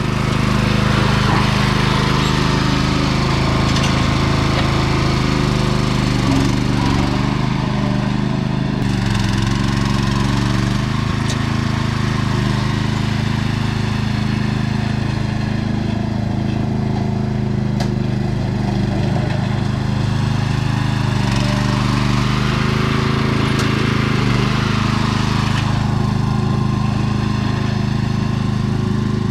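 Sears 10XL garden tractor engine running steadily at a constant speed while the tractor pushes dirt, with a rougher, noisier layer that swells and fades now and then over the engine note.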